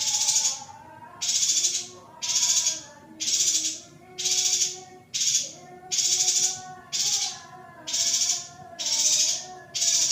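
Female yuhina giving a run of harsh, buzzy calls, each about half a second long and roughly one a second, with fainter wavering tones underneath.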